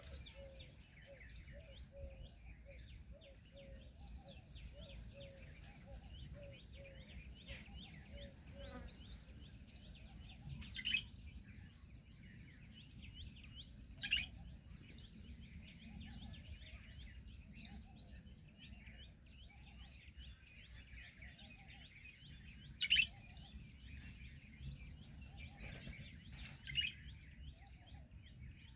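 Many small birds chirping and chattering together. A lower note repeats about two to three times a second through the first third, and a few louder single calls stand out later.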